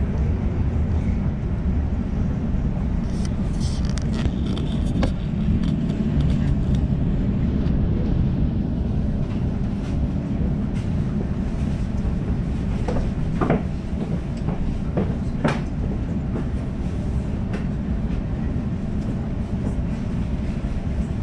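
Sydney suburban electric train running between stations, heard from aboard: a steady low rumble of wheels and running gear, with a few brief clicks in the second half.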